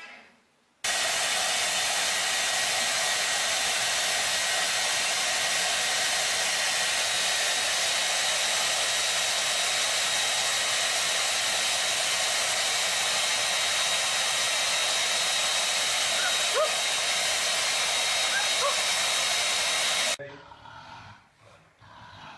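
Loud steady rushing hiss with a faint high whine, like an electric blower running. It starts abruptly about a second in and cuts off abruptly near the end.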